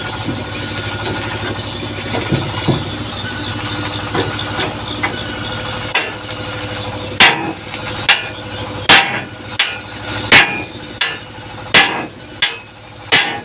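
An engine runs steadily. About halfway through, a hammer starts striking hard, about nine blows at a little under one a second.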